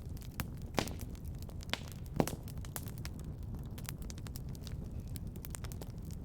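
Wood fire crackling in a fireplace over a steady low rumble, with frequent small clicks and three louder pops in the first two seconds or so.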